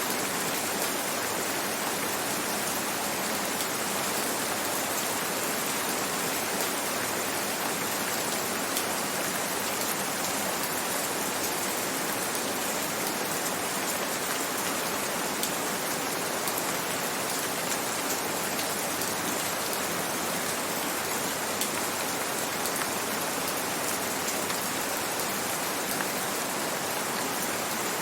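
Gentle, steady rain: an even hiss of countless drops with scattered faint individual drop ticks, holding at the same level throughout.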